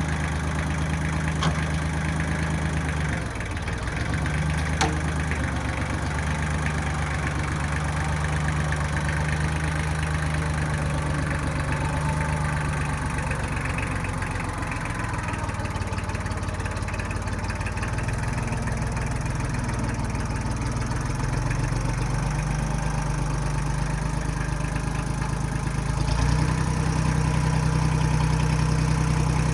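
1995 Kubota backhoe's diesel engine running steadily, its note dropping and rising a few times and stepping up louder near the end, with two sharp clanks in the first five seconds.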